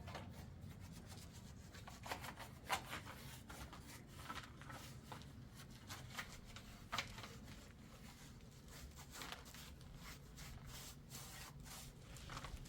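Scattered rustling and small clicks, like something being handled or rubbed, over a low steady hum.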